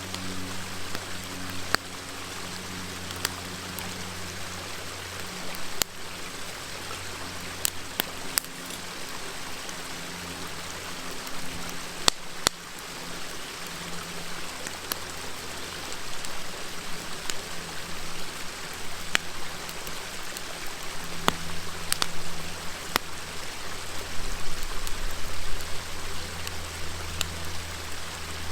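River water babbling steadily, with a wood fire crackling over it in scattered sharp pops and snaps.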